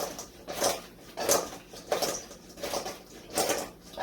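Freshly fried chicken wings being tossed in a bowl of butter sauce: the bowl is shaken in a steady rhythm, about three tosses every two seconds, with the wings sliding and clattering against its sides.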